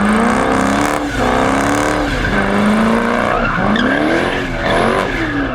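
A high-powered car engine revving hard in repeated surges, its pitch climbing and dropping several times, with tyre squeal over it as in a burnout or donuts.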